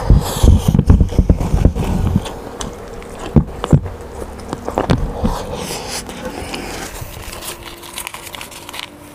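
Chewing and biting food close to the microphone: a dense run of low thuds for about two seconds, then scattered sharp clicks.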